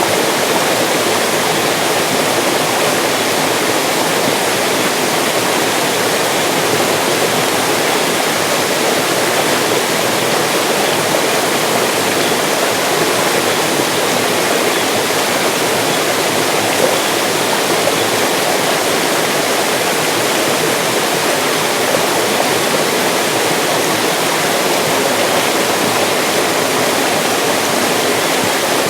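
Mountain stream rushing over rocks: a steady, even splashing and gurgling of running water with no pauses.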